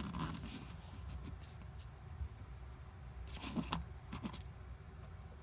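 Small clicks and light rattles from 1/64 diecast toy cars being handled and set down, bunched together about three and a half seconds in, over a low steady hum.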